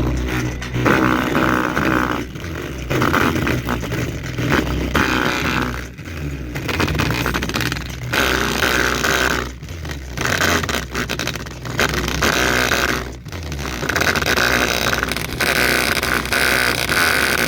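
A small loudspeaker overdriven by an amplifier with bass-boosted audio, giving a loud, heavily distorted buzz that swells and dips in uneven pulses.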